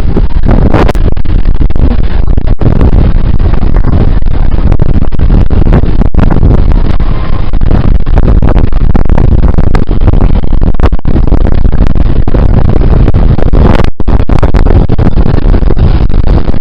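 Wind buffeting the handheld camera's microphone: a loud, continuous low rumble with no steady pitch or rhythm.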